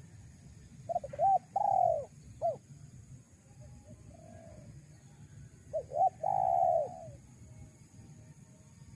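Spotted dove cooing: two song phrases about five seconds apart, each a couple of short notes followed by a longer coo.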